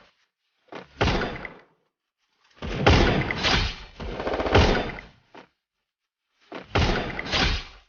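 Woodpecker drumming on wood: four rapid rolls of fast strikes, each about a second long, with short pauses between.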